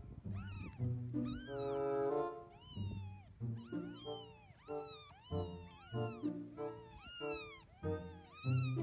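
Kittens meowing over and over, high-pitched cries that rise and fall, about two a second, over background music.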